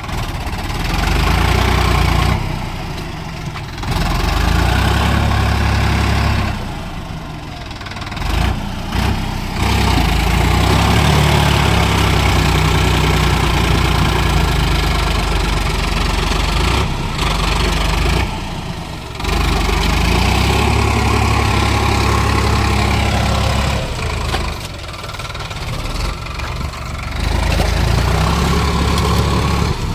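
Sonalika tractor's diesel engine labouring in mud, revving up under load and easing back again and again in long surges a few seconds apart, as the tractor keeps slipping.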